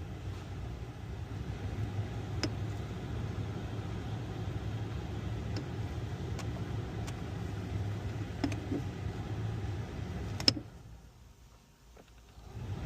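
2017 Jeep Compass running with a steady low hum and a few light, scattered clicks. The hum cuts off right after a sharp click about ten seconds in.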